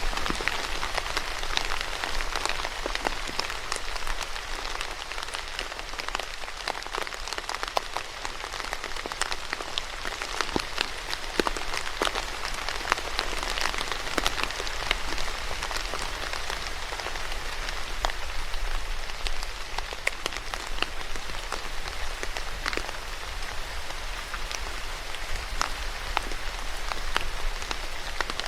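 Steady rain falling, an even hiss dotted with many distinct drops ticking as they land.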